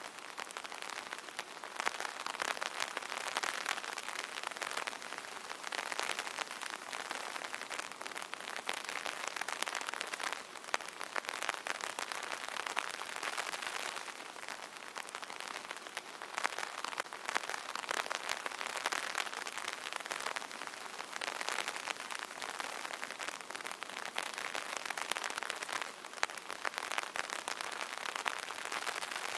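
Light rain pattering on an open umbrella: a dense, steady spatter of drops on the taut canopy that swells and eases every few seconds.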